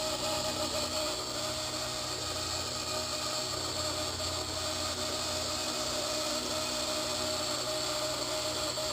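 Blade 130X micro RC helicopter running steadily, its motor and rotor whine carrying a persistent high-pitched screech, which the owner says sounds like a faulty main shaft bearing.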